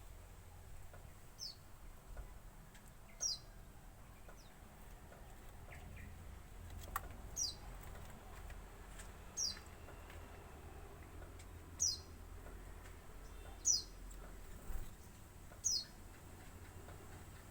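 Young brown-chested jungle flycatcher (SRDC) giving short, high chirps that sweep downward, about seven of them, roughly one every two seconds.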